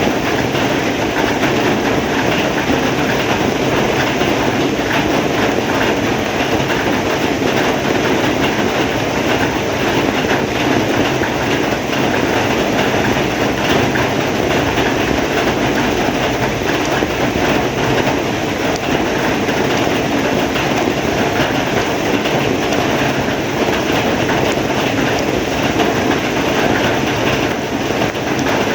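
Heavy rain falling steadily, a dense, unbroken hiss.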